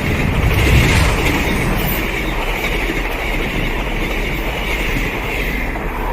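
Train passing at high speed close by: a loud, steady rumble and rush of wheels running on the rails.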